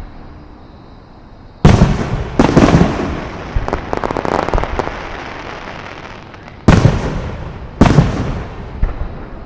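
Fireworks shells bursting overhead: four loud booms, each trailing off, with a smaller pop near the end. Between the second and third booms comes a stretch of dense crackling.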